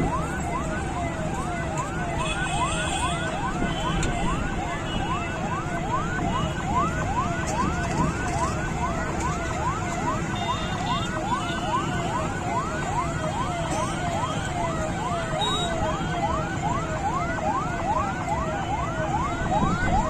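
Electronic vehicle siren in a fast yelp pattern, about two and a half sweeps a second, over a steady rumble of engines and traffic.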